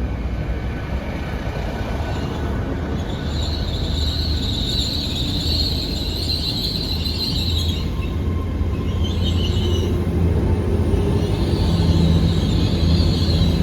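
Great Western Railway Class 800 IET train running with a steady low rumble, while a high-pitched squeal comes and goes twice.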